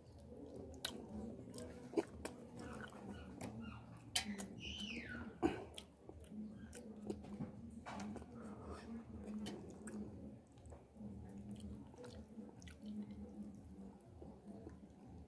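Close-up chewing and mouth sounds of a person eating fried fish and rice by hand, with many short wet clicks and smacks.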